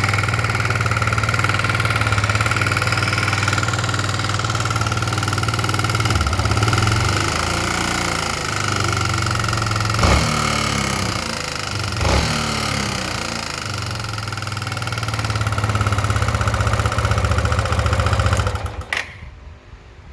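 Kawasaki Bayou 250's single-cylinder four-stroke engine running with a bad knock, revved up and down in the middle with two sharp bangs about two seconds apart, then shut off near the end. The owner takes the knock for a worn piston wrist pin or its bushing, not carbon build-up.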